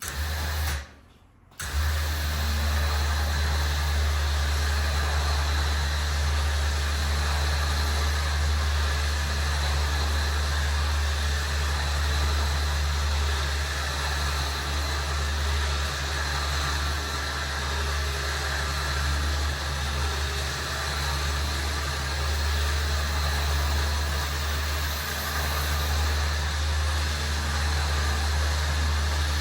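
An engine starting: a short first burst, a second's lull, then it catches and idles steadily.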